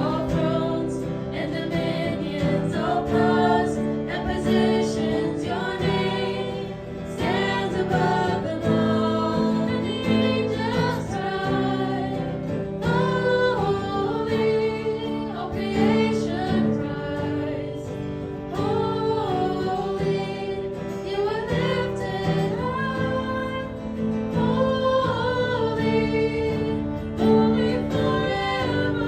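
A church praise team rehearsing a worship song: voices singing a melody over instrumental accompaniment with sustained chords.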